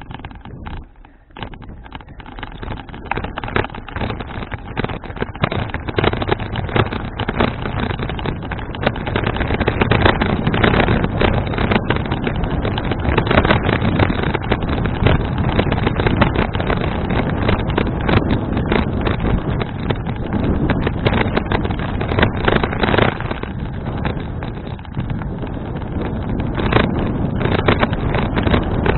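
Wind buffeting the action camera's microphone as the bicycle rides along, a loud, rough rushing. It builds over the first several seconds and then stays strong.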